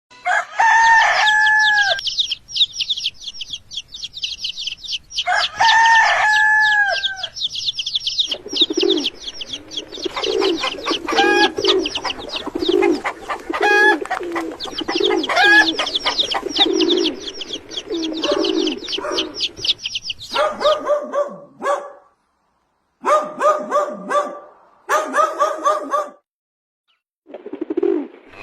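Farmyard poultry: a rooster crows twice in the first seven seconds over constant fast chirping of many small birds, then low, repeated hen clucking takes over. In the last third, short bursts of calls are separated by abrupt silent gaps.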